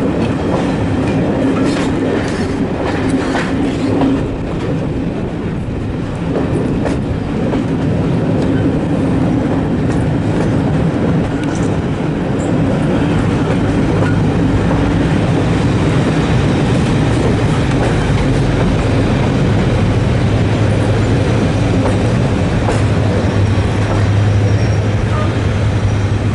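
Coach of a diesel-hauled heritage train rolling slowly, heard from its window: the wheels click over rail joints in the first several seconds, over a steady low running hum.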